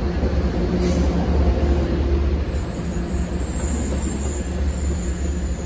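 Double-deck passenger train passing close by, a steady, deep rumble of wheels on rail as the last coaches roll past.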